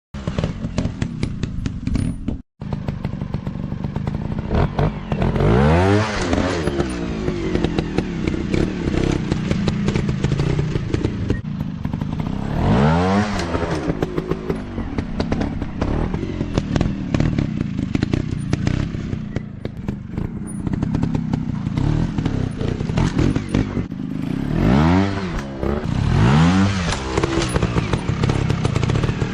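Dirt bike engine running under load, its pitch rising sharply in several hard throttle revs, with clattering knocks throughout. The sound cuts out briefly about two seconds in.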